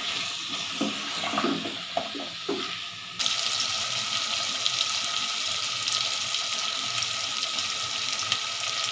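Cubed potatoes frying in oil and masala in a steel pot, sizzling steadily. For the first three seconds a ladle stirs them, with a few soft knocks and scrapes against the pot; then the sizzle carries on alone, suddenly a little louder.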